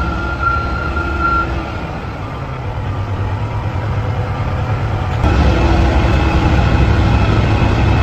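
Dump truck engine running with a steady low rumble and a thin high tone that fades out early. About five seconds in the sound suddenly gets louder and stays there.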